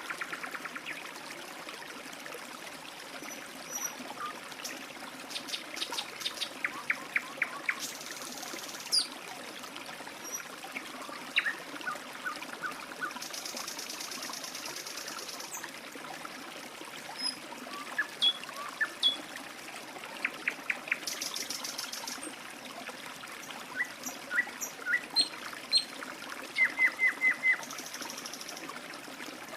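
A stream trickling steadily, with small songbirds calling over it: quick series of short chirps and several high, buzzy trills.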